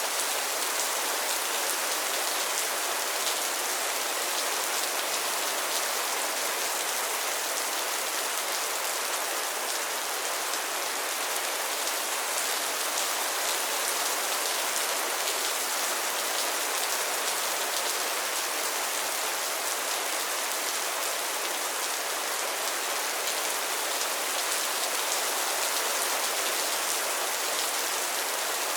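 Steady rain falling on a pond's water and lily pads: an even hiss with a fine patter of individual drops.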